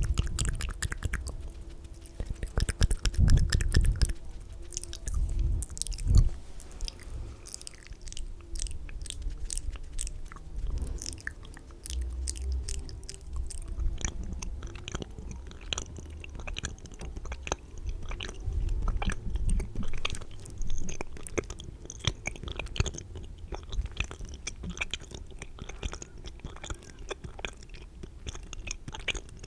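Close-miked wet, spitty mouth sounds: dense, irregular clicks and smacks, with a few louder low thumps on the microphone about three and six seconds in.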